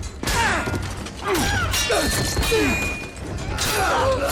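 TV fight-scene audio: repeated blows and clashing impacts mixed with men's short grunts and cries, over a music score.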